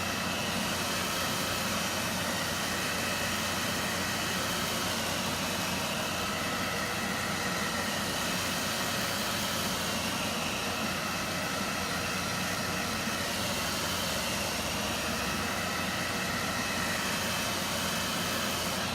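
Handheld hot-air dryer blowing steadily, drying a freshly applied layer of chalk paste before the next transfer layer goes on. It switches off right at the end.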